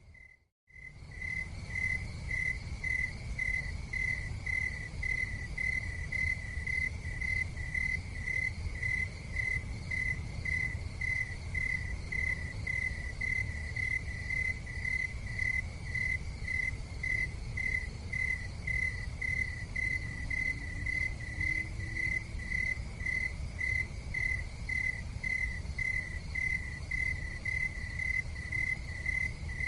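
Cricket chirping steadily at about two chirps a second, a high pulsed trill, over a low steady rumble. The sound cuts out briefly just after the start, then resumes.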